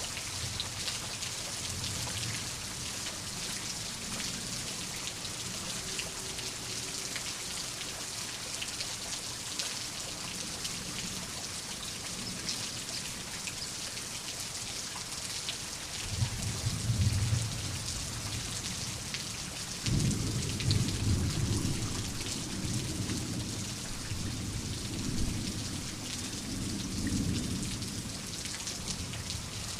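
Steady heavy rain hissing and pattering. About halfway through a low thunder rumble sets in, and a louder, longer rumble follows a few seconds later, fading out before the end.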